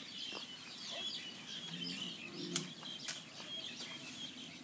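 Birds chirping and calling steadily, with two sharp snaps about two and a half and three seconds in.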